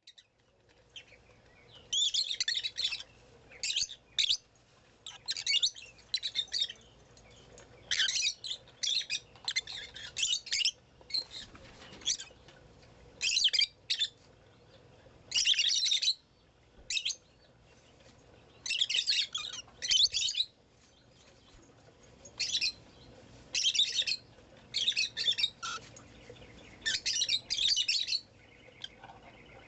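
Bird chirping in short, high, bright phrases, one every second or two, with quiet gaps between them.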